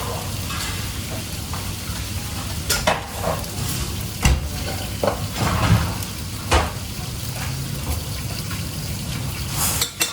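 Food frying in a busy kitchen, with a steady sizzle and low background noise, and a scattering of sharp knocks and clinks of pans and utensils, about six through the stretch.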